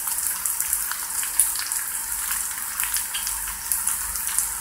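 Diced potatoes and onions frying in sunflower oil in a large pan on the highest heat: a steady sizzling hiss with small crackles and pops.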